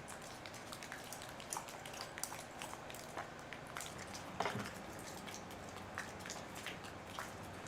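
Scattered light clicks and taps of chainsaw parts and tools being handled during cleaning, with one louder knock about four and a half seconds in.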